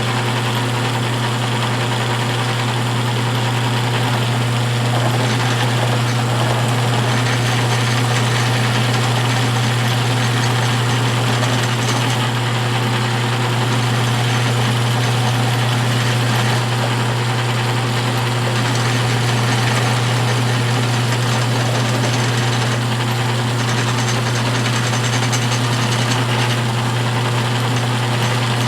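Electric motor of a powered leather edge burnisher running steadily, with a strong constant low hum and an even whirring hiss over it.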